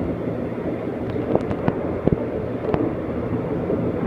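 Seoul subway Line 2 train running: a steady rumble with several sharp clicks and knocks scattered through it.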